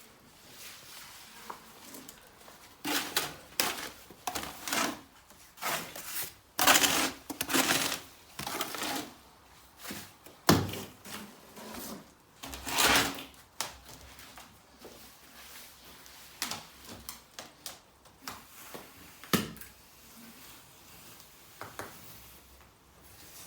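Irregular scraping and knocking of hand tools and stone pieces during stone-cladding work, with two sharper knocks about ten and nineteen seconds in.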